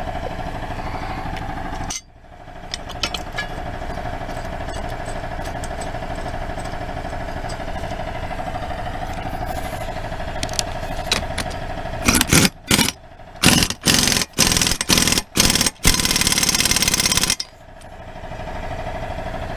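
Pneumatic impact wrench driving in a mower blade bolt in several short bursts, then one longer run of about a second and a half. A steady motor hum runs underneath.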